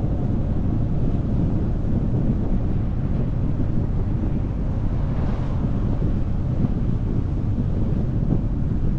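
Wind buffeting the microphone of a motorcycle riding at road speed: a steady low rush. A brief hiss passes over it about five seconds in.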